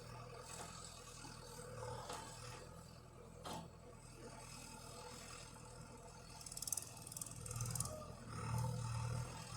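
Tractor engine running steadily with a low hum, with a sharp click about three and a half seconds in and a spell of fast metallic rattling near the end.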